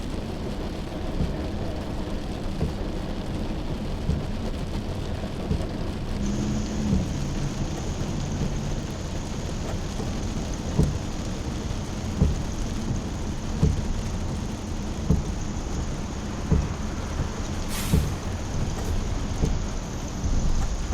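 Heavy rain falling steadily. In the second half, dull knocks come about every second and a half.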